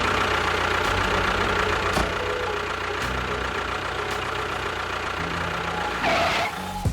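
A small engine running steadily at idle, with a brief louder burst about six seconds in.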